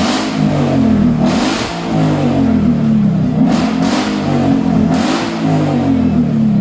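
Ford Mustang GT V8 with a decatted, straight-piped mid-section exhaust, revved over and over: the engine note climbs and drops several times, with sharp rev peaks about a second and a half in and again around three and a half, four and five seconds in.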